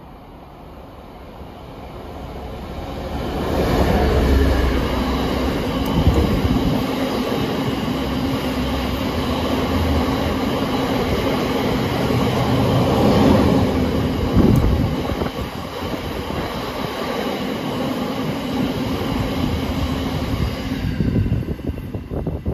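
Freightliner Class 66 diesel locomotive passing with a freight train. Its two-stroke engine builds over the first three seconds as it draws near. After that a long rake of box wagons rumbles past, with knocks and clatter from the wheels, until the sound drops away shortly before the end.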